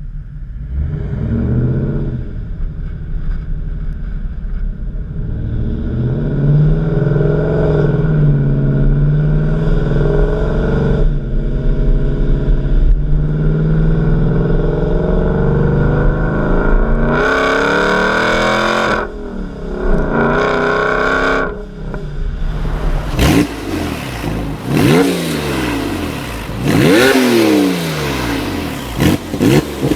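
Car engine and exhaust revving: a running engine whose pitch swells and eases for most of the stretch, then, about two-thirds through, a series of quick sharp revs rising and falling in pitch.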